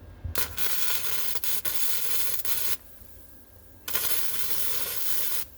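Wire-feed welder laying two short beads on steel, each a steady crackling hiss: the first about two seconds long, the second about a second and a half, with a short pause between.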